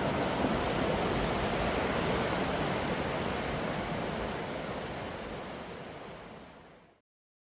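Steady rushing of a waterfall, fading out to silence near the end.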